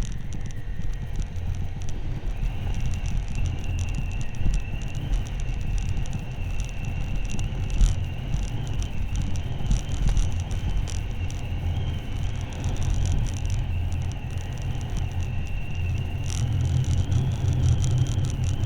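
Motorcycle riding along at a steady pace: a heavy, continuous low rumble of engine and wind on the microphone, with a thin, steady high whine from a couple of seconds in.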